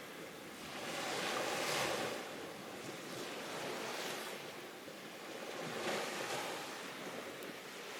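Waves washing on a shore, swelling and ebbing in slow surges about four seconds apart, with wind.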